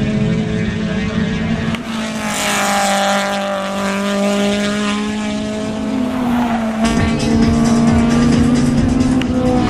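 Racing engines running hard at high revs, their pitch bending up and down as they pass, and getting louder about seven seconds in.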